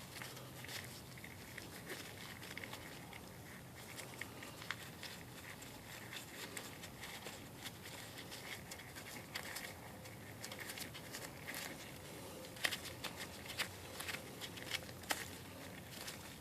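Faint, scattered small metallic clicks and handling noises as a 12 mm nut is turned off a stainless steel exhaust manifold stud by hand, with a few sharper clicks near the end.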